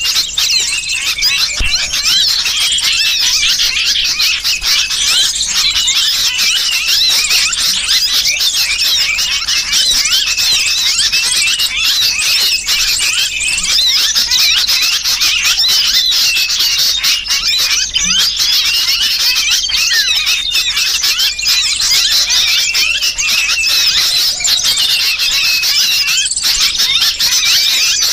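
A dense, unbroken chorus of high, squeaky small-bird calls: agitated sooty-headed bulbul (kutilang) calls mixed with the shrill distress cries of a trapped bird. It is a bird-lure recording (suara pikat), whose alarm and distress calls are meant to draw small birds in to mob.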